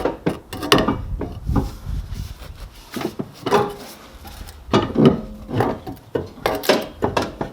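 Irregular clunks, knocks and scraping as a C5 Corvette's exhaust pipe is lifted and worked into place under the car, catching against the chassis.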